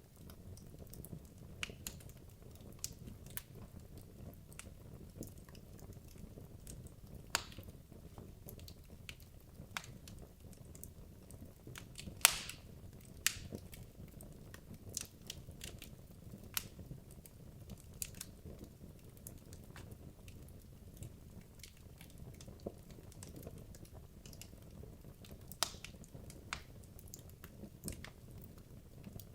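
Wood logs burning in a fireplace: irregular crackles and pops over a low, steady rush, with one louder pop about twelve seconds in.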